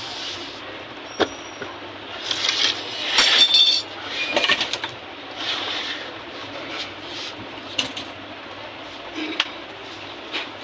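Hand tool scraping and rasping over wood in short irregular strokes while a harmonium's key bed is levelled, the strokes loudest a few seconds in, with a few sharp clicks of tool or keys between them.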